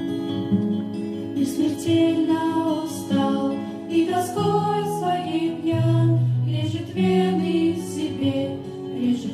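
A vocal ensemble singing a song together over instrumental accompaniment.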